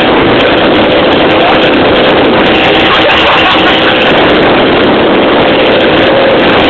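Small boat's engine running steadily, loud and close, with an even hum.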